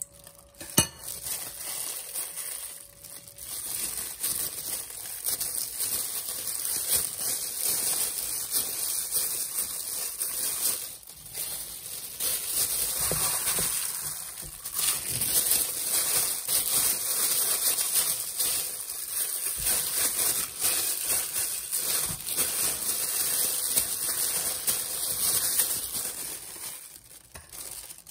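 Food sizzling in a hot frying pan, a steady crackling hiss, with one sharp clink of a utensil about a second in.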